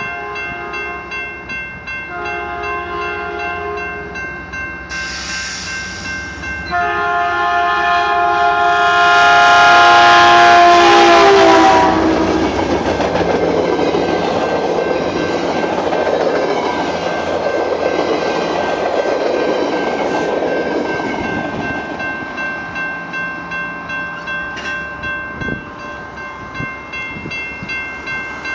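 A railroad crossing warning bell dings steadily throughout. A Metrolink commuter train sounds a short horn blast, then a long loud one whose pitch drops as it reaches the crossing. The rumble and clatter of its bi-level coaches rolling past follows and fades back to the bell near the end.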